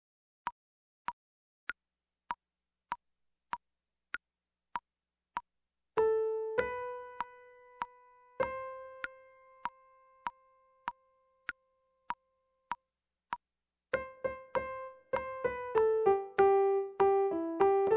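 Metronome clicking steadily, a little under two clicks a second. About six seconds in, a piano joins with a single-line melody, the soprano part: a long held note, a pause, then a quicker run of notes, all in time with the click.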